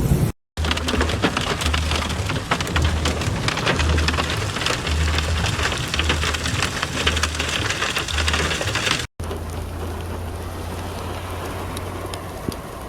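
Heavy rain pelting down, a dense patter of hard drop impacts over a low throb that repeats about every two-thirds of a second. After a brief break about nine seconds in, steadier rain goes on.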